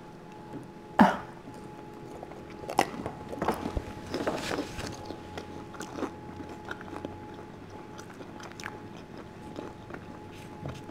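A person biting into and chewing cheesy garlic bread close to the microphone. There is a loud bite about a second in, then a run of crunchy, wet mouth clicks a few seconds later, and softer chewing after that.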